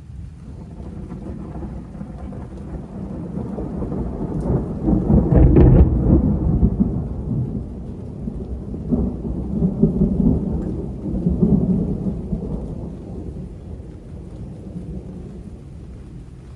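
Thunder from a strong multicell thunderstorm, a long low roll that builds to its loudest about five seconds in, swells again twice, then slowly fades.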